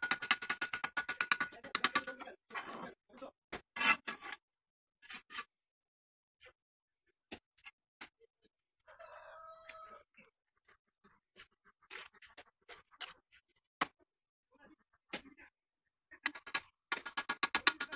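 Rapid scraping and clicking in the first two seconds and again near the end, with scattered knocks between; a rooster crows once, briefly, about nine seconds in.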